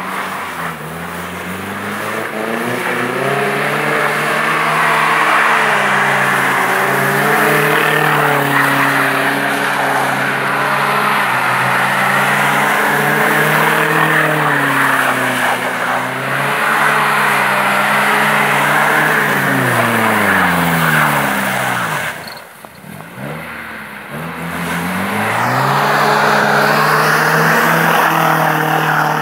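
Mercedes-Benz 190 engine held at high revs with the wheels spinning as the car drifts in circles through snow and slush, with a hiss of tyres and thrown slush. About twenty seconds in the revs fall away and the sound drops, then the revs climb again a few seconds later as the car passes close by.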